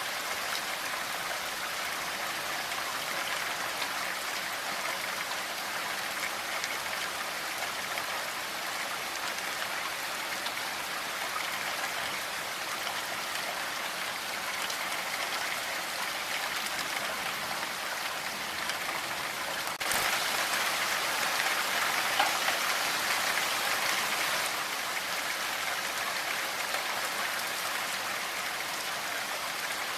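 Steady rain falling, an even patter with no thunder. About two-thirds of the way through there is a faint click, and the rain grows louder for a few seconds before settling back.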